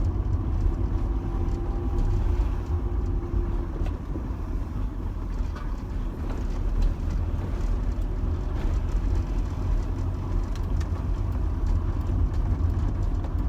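2005 Rover 25 GSi heard from inside the cabin while driving: a steady low road and engine rumble. A steady engine tone sits over it for the first few seconds and then fades.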